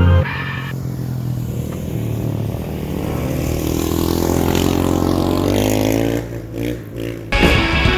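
Ice racing dirt bike engine running under throttle, its pitch climbing steadily as it accelerates, then easing off near the end. Music cuts back in just before the end.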